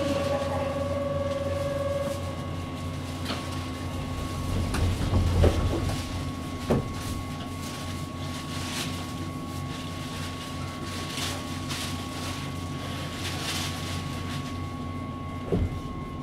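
Keihan 8000-series electric train heard from inside the passenger car as it pulls away and runs on: a steady running rumble, with a few short louder knocks from the wheels on the track about five, seven and fifteen seconds in.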